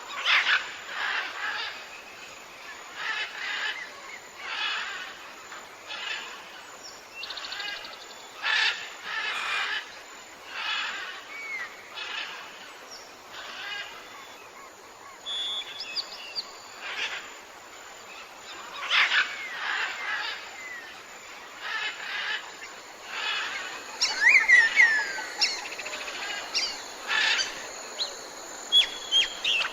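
Tropical forest birds calling over a steady forest background: calls repeat every second or two, and a burst of sliding whistles comes about three-quarters of the way through.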